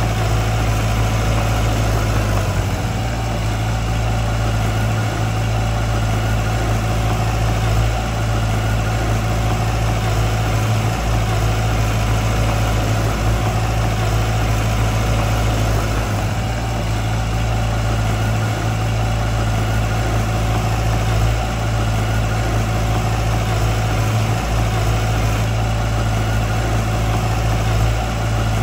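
Diesel engine of heavy earthmoving machinery running steadily at an even speed: a constant low hum with no revving.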